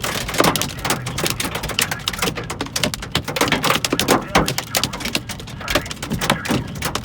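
Hail pelting the car's roof and windshield, heard from inside the car: a dense, irregular clatter of hard hits with no letup.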